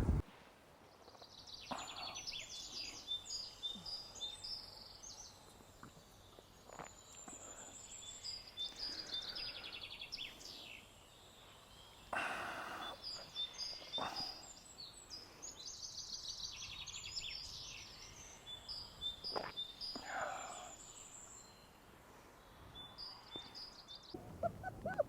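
Small songbirds singing: repeated high, rapid trilled phrases, with a few soft knocks in between.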